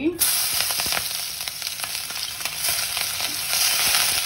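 Chopped garlic and green chillies dropped into very hot oil in a stainless steel wok, starting to sizzle suddenly just after the start and sizzling steadily while a wooden spatula stirs them.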